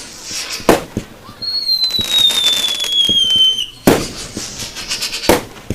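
Fireworks going off: three sharp bangs, one under a second in, one near four seconds and one past five seconds. Between them a whistling firework gives a long whistle that slides slowly down in pitch, with crackling around it.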